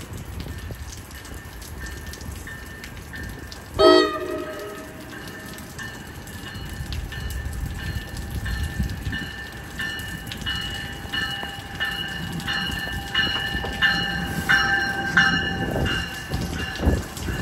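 New Jersey Transit commuter train arriving: a short horn blast about four seconds in, then a bell ringing in steady strikes that grow louder as the train draws alongside, over the rumble of the train and the hiss of rain.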